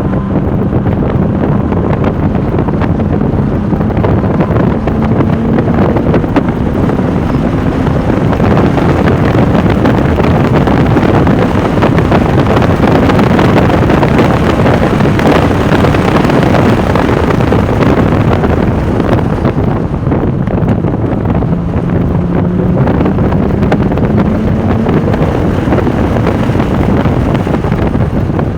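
Porsche 996 Turbo's twin-turbo flat-six running hard at track speed under heavy wind noise on the microphone, its note climbing steadily as it accelerates about two-thirds of the way through.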